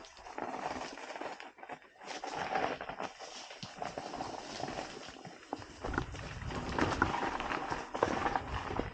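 Mountain bike rolling slowly down a rutted dirt and rock trail: tyres crunching and the bike clattering over stones in an irregular run of small knocks. It grows louder, with a low rumble, from about six seconds in.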